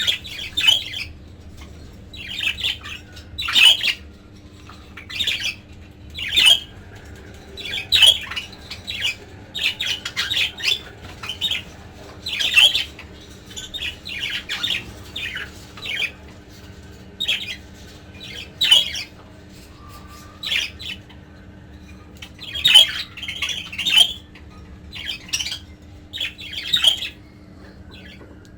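Budgerigars calling in short, harsh squawks and chirps, repeated irregularly every second or so.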